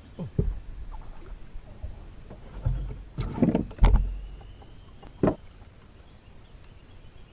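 Knocks and bumps of gear being handled in a small boat: a cluster about three to four seconds in and a single sharp knock about five seconds in. A steady high insect drone sounds underneath.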